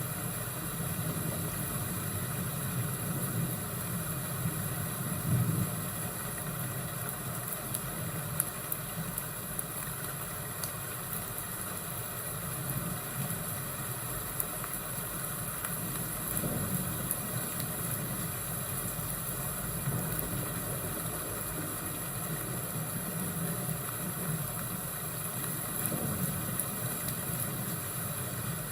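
Fireplace and thunderstorm ambience: a steady rain-like hiss with low rolling thunder that swells three times, and a few scattered crackles from the fire.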